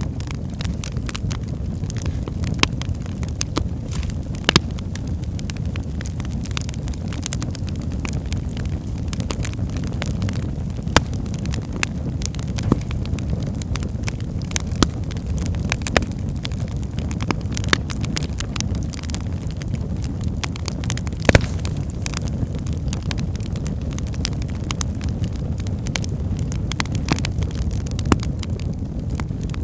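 Wood fire burning in a fireplace: a steady low rumble with irregular sharp crackles and pops from the burning logs, two of them louder, near the start and about two-thirds through.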